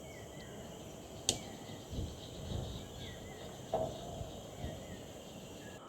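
Wetland ambience: a steady high insect chorus with small bird chirps at intervals, a sharp click a little over a second in, and a few soft low bumps.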